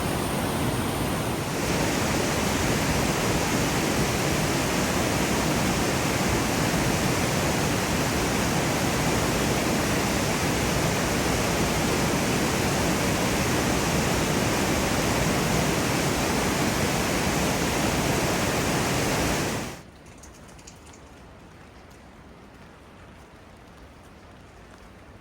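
Loud, steady rush of mountain water pouring down, which cuts off suddenly near the end and leaves a much quieter patter of steady rain.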